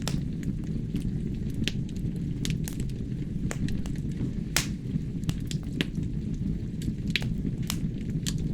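Wood fire burning in a fireplace: a steady low rumble of flames with irregular sharp crackles and pops from the burning logs, the loudest pop about halfway through.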